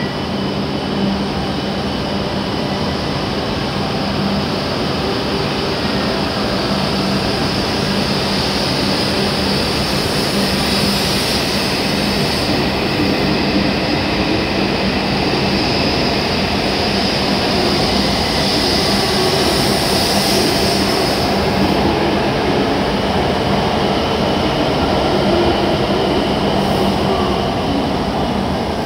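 W7 series Shinkansen train pulling out and gathering speed along the platform: a steady rush of running noise over a low steady hum, growing slowly louder as the cars slide past.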